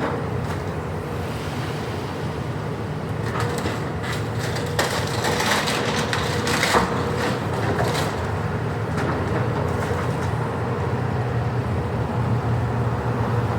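Excavator engine running steadily during a building demolition, with crunching and cracking of debris being torn apart between about three and eight seconds in.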